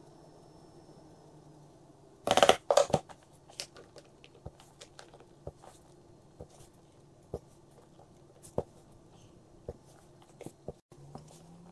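Red casting sand being dropped and packed by hand over a mold pattern in a wooden flask: a loud rustling rush of sand about two seconds in, then scattered light crunches and clicks as the sand is pressed down.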